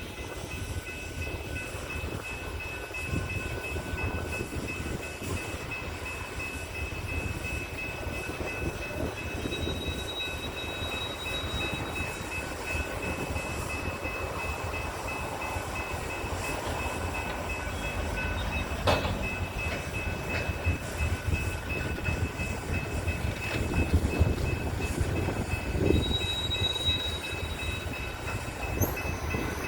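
Loaded coal train rolling slowly through a rail yard: a steady low rumble of the cars and diesel locomotives, with a faint thin high whine. There is a single sharp clank a little past halfway.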